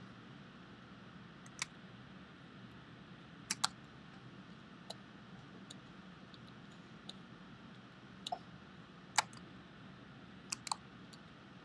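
Scattered sharp clicks of a computer mouse and keyboard, about nine at irregular intervals with a couple of quick pairs, over a faint steady room hum.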